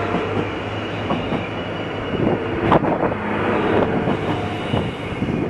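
DB class 646 diesel multiple unit passing close by, its wheels clicking over rail joints every second or so above a low steady engine hum.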